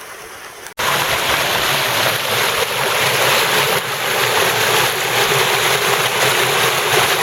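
Creek water rushing steadily past a cinder-block dam. A quieter flow cuts off abruptly just under a second in, and a much louder rush follows.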